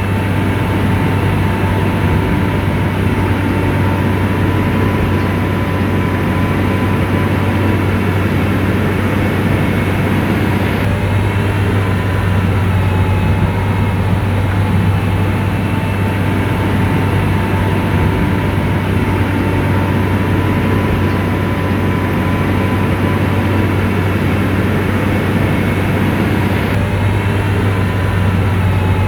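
Heavy diesel engine of a motor grader running steadily under load, a deep constant drone with a faint wavering whine above it.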